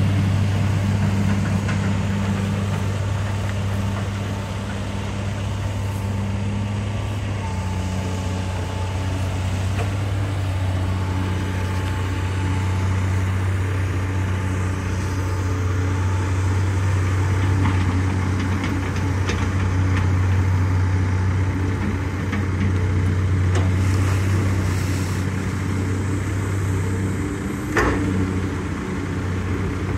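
Hitachi EX200-5 excavator's diesel engine running steadily while the machine digs, its pitch and loudness shifting a little with the load, with a single sharp knock near the end.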